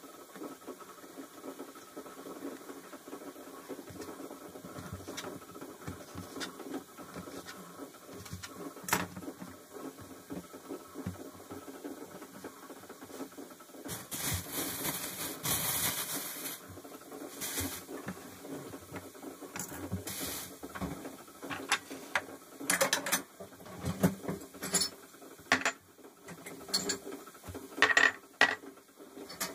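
Household objects being handled: scattered small clicks and knocks, a few seconds of hissing noise a little past the middle, and denser, louder clatter near the end.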